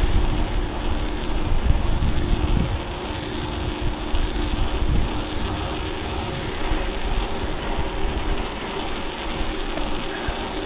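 Wind rushing over the microphone of a moving bicycle, with road noise. A low steady hum runs under it for the first two or three seconds.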